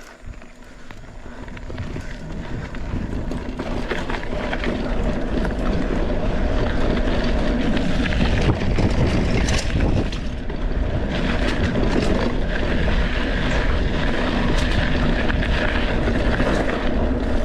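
Wind rushing over the microphone with the rattle and tyre noise of a Cradiac XC 900 mountain bike riding over a rough trail. The noise builds over the first few seconds to a steady loud rush, with scattered short clicks.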